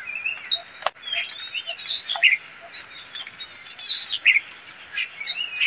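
Small birds chirping and trilling, several short high calls repeating and overlapping, with one sharp click a little under a second in.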